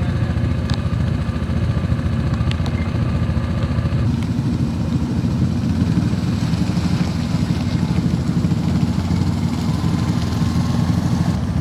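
A motor running steadily with a low rumble; the higher background sound changes about four seconds in.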